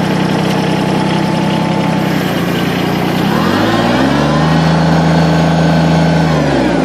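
Kubota BX2360 compact tractor's three-cylinder diesel engine running as the tractor moves slowly. About three seconds in the engine note drops and a higher whine rises, holding for a few seconds, then the engine note comes back up near the end.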